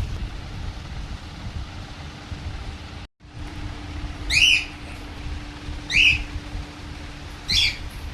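Young pet parrot giving three short, high-pitched calls about a second and a half apart in the second half, over a steady low rumble.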